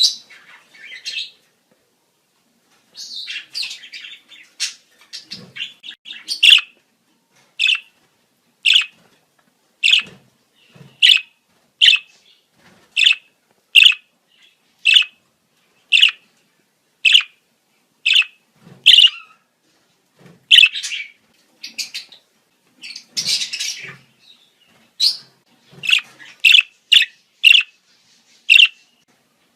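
Budgerigars' breeding-season calls: busy chattering and warbling, then from about six seconds in a long run of short sharp chirps roughly one a second, with the chatter picking up again in the second half.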